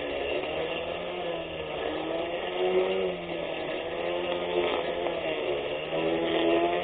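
Brushless electric lawn mower motor running with a steady whirring hum, its pitch wavering slightly up and down.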